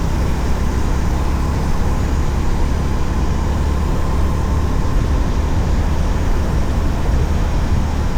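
Honda CB350RS single-cylinder motorcycle engine running steadily under way, with a heavy low rumble of wind on the microphone.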